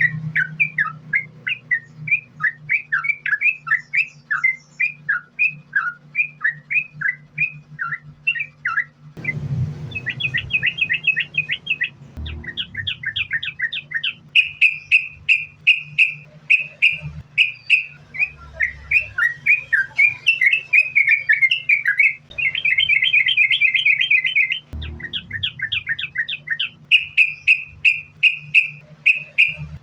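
Yellow-vented bulbul (trucukan) singing in long, unbroken runs of fast chattering chirps, with a couple of quicker buzzy trills in the middle and again later. A steady low hum runs underneath.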